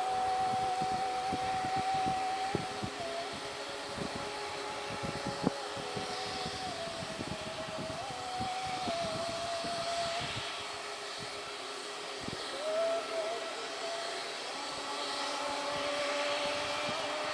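Aircraft engines running with a steady whine that shifts up and down in pitch several times, over rough low buffeting.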